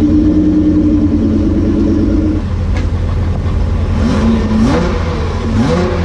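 A modified Nissan GT-R R35's twin-turbo V6 is held at a steady raised rev for about two seconds, then drops back to idle. It is then blipped twice, the pitch rising and falling each time.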